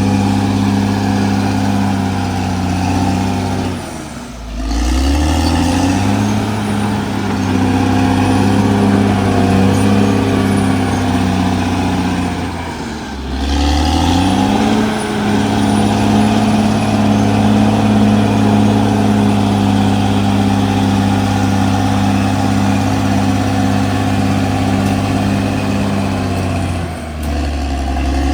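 CAT D6R XL bulldozer's diesel engine running loud and steady at working revs, its pitch dropping and climbing back three times: about 4 seconds in, about 13 seconds in, and near the end.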